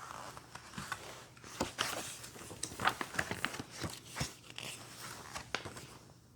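Paper rustling and scattered soft clicks of a picture book being handled.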